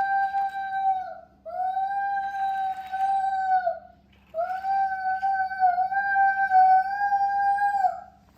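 Three long, steady high-pitched wailing calls, each held about three to four seconds with short breaks between them, sliding up at the start and dropping off at the end.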